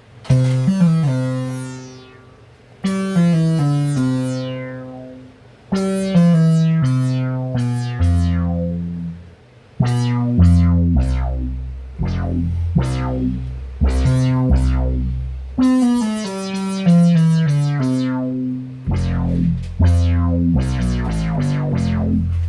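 A freshly restored 1974 Minimoog analog synthesizer being played: a line of separate notes, each starting bright and dulling as it fades, with deep bass notes from about eight seconds in.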